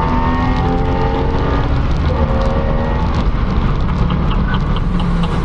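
Mid-engined VW Beetle's Porsche 997 flat-six under acceleration in a tunnel, its engine note climbing, dropping about two seconds in as it shifts up, then climbing again.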